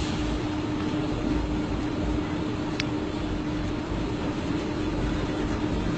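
Road traffic noise: a steady vehicle hum and rumble with one sharp tick about three seconds in.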